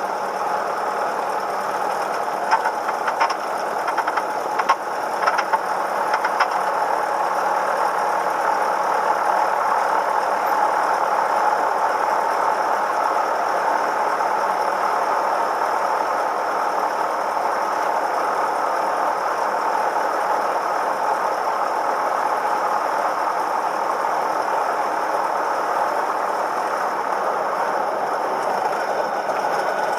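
Cessna 172M's four-cylinder Lycoming piston engine running steadily, with a few short sharp clicks or rattles a few seconds in.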